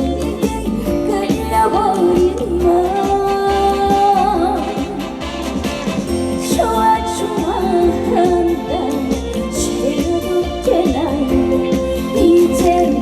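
A female trot singer sings a slow melody with long held, wavering notes over instrumental accompaniment with a steady beat.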